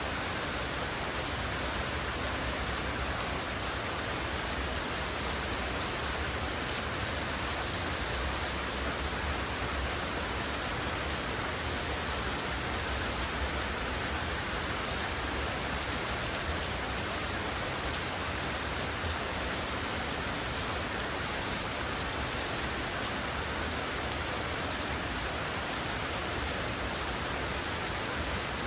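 Heavy rain falling steadily, an even unbroken hiss of water with no let-up.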